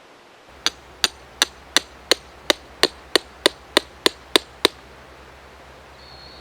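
Thirteen quick hammer blows on something hard, about three a second, each a sharp ringing crack.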